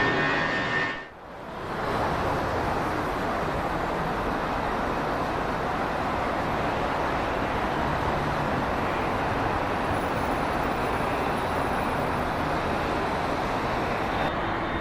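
Steady rushing jet noise from an arriving Airbus A330-303's General Electric CF6 engines. A brief dropout about a second in cuts off the end of the preceding jet whine.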